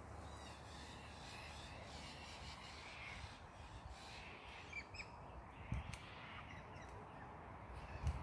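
Faint, harsh, crow-like bird calls over quiet outdoor background, with a few light clicks about five seconds in.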